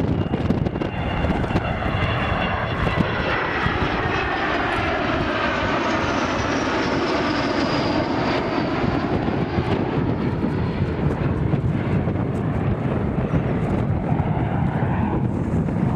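Fixed-wing display aircraft flying past with its engine running steadily loud, the pitch sweeping down and then back up as it passes.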